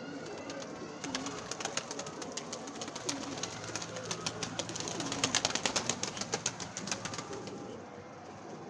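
Pigeons and doves cooing softly and repeatedly. A fast run of sharp clicks or taps starts about a second in, grows loudest past the middle and stops shortly before the end.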